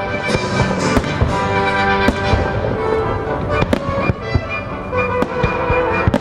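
Fireworks bursting in quick succession, sharp bangs and pops throughout, over the fireworks show's orchestral music soundtrack.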